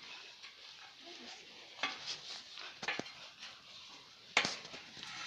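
Scuffs, rustling and scattered knocks of a person climbing while holding the camera, with one sharper knock about four and a half seconds in.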